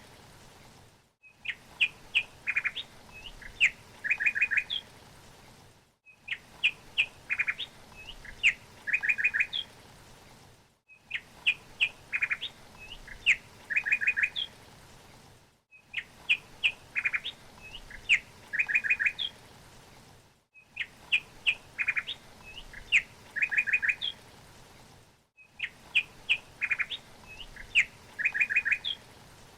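A songbird chirping and trilling in quick clusters of notes, the same few seconds of song repeating identically about every five seconds with a short silent gap between repeats, over a faint steady hiss.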